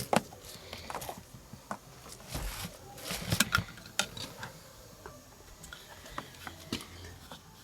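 Scattered clicks, taps and brief rustles of equipment being handled, irregular and not a running engine.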